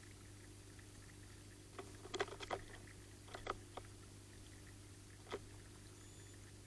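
A bird at a tiny pond making brief clusters of sharp taps and splashes: a quick flurry about two seconds in, another about a second later, and a single tap near the end, over a steady low hum.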